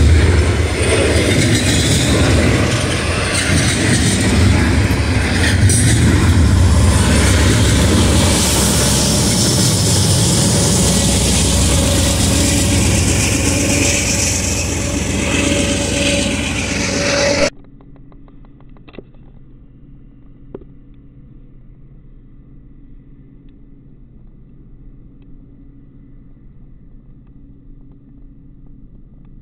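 Double-stack intermodal freight train passing close: loud, steady rumble and rattle of steel wheels on rail and rolling stack cars, with a diesel locomotive's engine mixed in toward the end. About 17 seconds in it cuts off suddenly to a much quieter scene with only a faint low hum from a distant diesel train.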